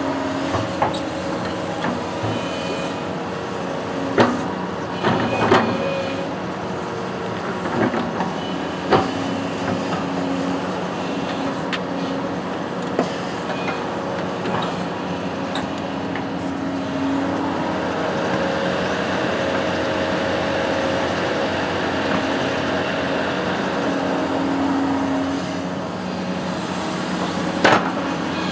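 A construction machine's engine running steadily, with a few sharp metallic knocks over it.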